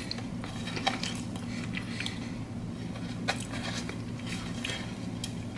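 A person chewing a mouthful of soft cheesecake close to the microphone, with small wet mouth clicks and smacks, two sharper ones about a second in and past three seconds. A steady low hum runs underneath.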